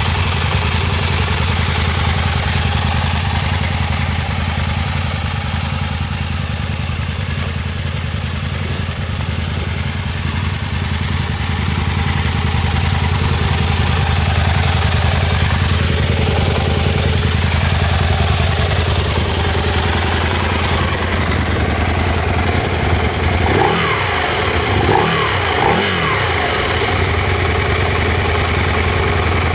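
Aprilia Tuono 1000's V-twin engine idling steadily. Near the end the throttle is blipped a few times, each rev rising and falling before it drops back to idle.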